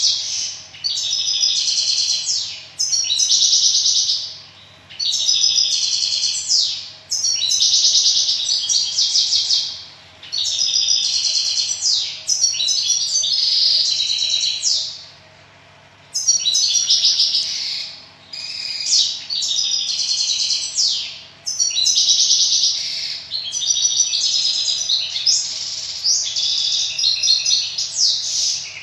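Pet songbird singing: fast, high-pitched chirping and warbling phrases a few seconds long, with short pauses between them and a longer pause about halfway through.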